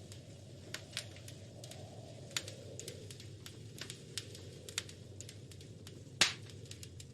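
Wood fire crackling in a fireplace: irregular sharp pops and snaps over a low steady rumble of the flames, with one much louder pop about six seconds in.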